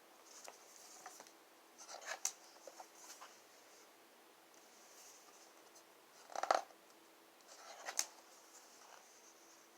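Faint rustling and light handling sounds of a paper picture book, its pages being turned, with scattered soft scrapes and a sharper knock about two-thirds of the way through.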